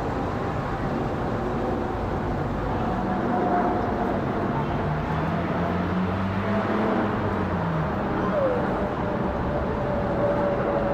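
Boeing 777-200ER jet airliner passing overhead: a steady rushing engine roar with a faint whistling tone that slowly falls in pitch as it goes by.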